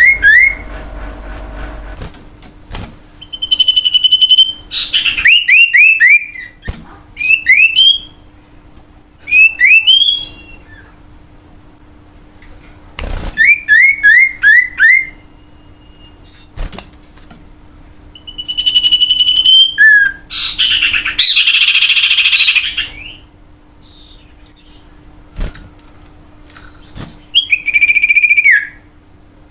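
Common iora (cipoh) singing in loud separate phrases: runs of quick downward-slurred whistles and drawn-out whistled notes, with a harsh rasping burst about 21 seconds in. A faint steady hum lies underneath.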